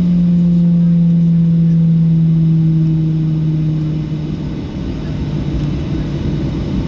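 Cabin noise of a Boeing 737-800 taxiing after landing: the CFM56 jet engines' steady hum over a low rumble, sliding slightly lower in pitch and easing off about four seconds in as thrust comes back.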